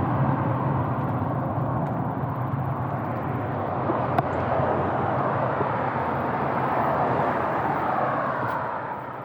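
Steady rushing road noise of motor traffic passing, with a low engine hum at the start that fades out and a faint click about four seconds in.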